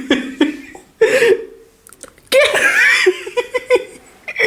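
People laughing and giggling in short bursts, with a quick run of chopped laughs near the end.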